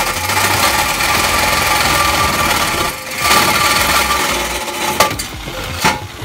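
Corded power tool cutting through the Miata's exhaust pipe to take off the muffler. It runs steadily with a brief dip about three seconds in and stops about five seconds in, followed by a few sharp knocks.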